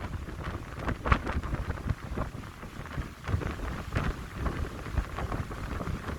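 Wind gusting through a pine grove, with a low rumbling buffet and irregular short rustling crackles that rise and fall with the gusts.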